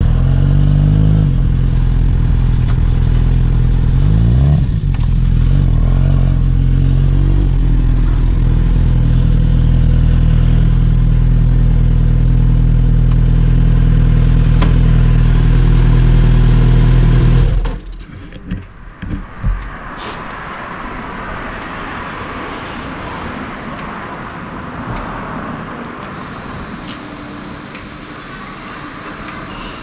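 Kawasaki Z900RS inline-four engine running loud and steady, with short rises in pitch near the start and again about four seconds in. It stops abruptly about seventeen seconds in; a few knocks follow, then a quieter, steady hiss of background noise.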